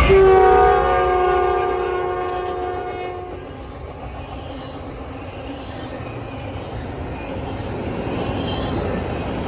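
Norfolk Southern freight locomotive's air horn sounding a chord that fades out after about three seconds, over the rumble of the train rolling on the rails, which grows a little louder near the end.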